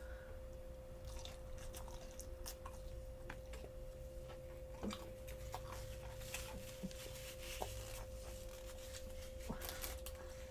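Close-miked eating sounds: chewing and biting, with scattered short wet clicks and crunches that come more thickly in the second half.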